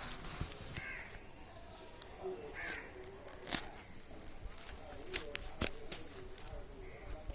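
A crow cawing, three short calls spaced a couple of seconds apart, with sharp clicks and knocks in between.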